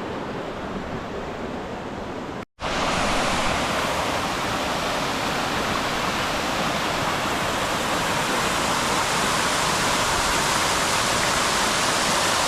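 Flowing water of a stream and waterfall rushing steadily. About two and a half seconds in the sound drops out for a moment, then comes back louder and brighter.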